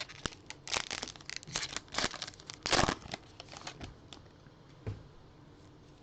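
Crinkling and tearing of a foil trading-card pack wrapper being opened: a run of crackles and rips, the loudest just under three seconds in, then quieter handling.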